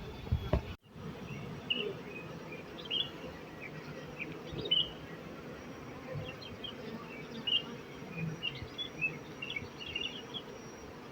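Honey bees (Apis mellifera) buzzing as workers fly around the hive, a steady hum with many short high chirps scattered over it; the sound cuts out briefly about a second in.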